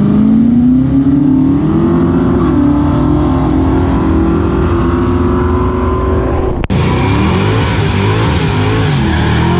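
Drag cars launching and accelerating hard away down the strip, engine notes climbing and then holding at high revs. About two-thirds of the way in it cuts abruptly to another car's engine close by, revving up and down unevenly.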